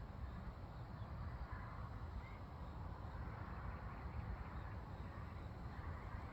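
Wind blowing, rumbling on the microphone, with a soft hiss that swells and fades in gusts.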